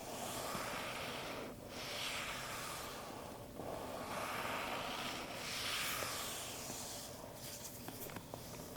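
Lid of an Apple product box slid slowly on and off its base, four soft airy whooshes in a row, then a few light taps on the cardboard near the end.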